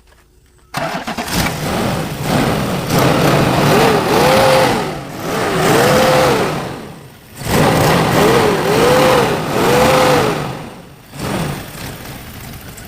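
Toyota 4Runner engine bursting into life about a second in, then revved several times. The pitch rises and falls with each blip of the throttle and drops back toward idle twice between the groups of revs.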